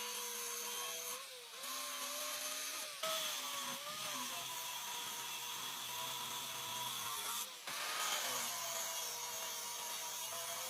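A machine tool or power tool working metal, running steadily with a motor whine that wavers slightly in pitch over a rushing cutting noise. It breaks off briefly a few times.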